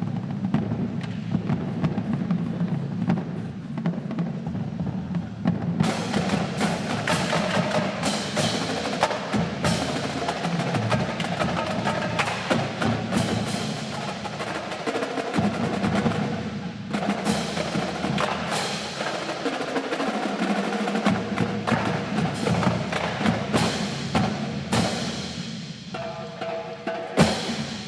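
Marching drum line playing a percussion feature: snare drums and bass drums drumming, thin and low at first and much fuller with sharp hits from about six seconds in, closing with a loud final hit near the end.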